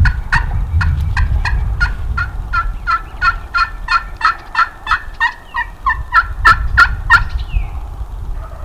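Several wild turkeys calling at once: fast runs of short, repeated notes, about four a second, from more than one bird.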